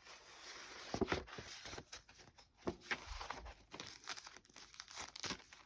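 Paper greeting cards rustling and crinkling as they are handled and shuffled, with irregular sharp crackles, the sharpest about a second in.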